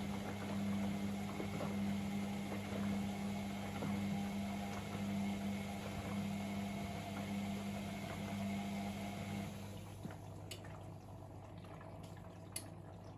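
Privileg Sensation 952 S top-loading washing machine working through its wash with water rushing and a pump humming steadily. About ten seconds in, the pump hum and water rush cut off, and two sharp clicks follow.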